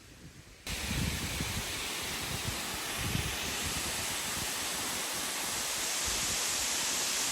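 Small waterfall rushing, a steady full hiss of falling water that starts abruptly less than a second in, with low gusts of wind buffeting the microphone.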